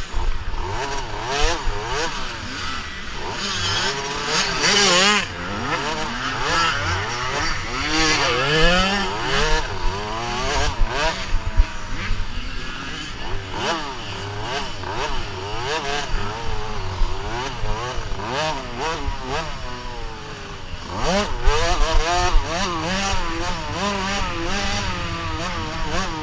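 Several motocross dirt bikes riding a track, their engines revving up and dropping back over and over as they accelerate and shift, with the sounds overlapping.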